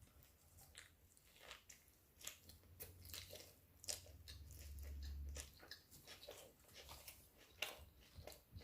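Faint chewing and biting by a person eating, with many small scattered mouth clicks and smacks. A faint low hum comes in about three seconds in and stops a couple of seconds later.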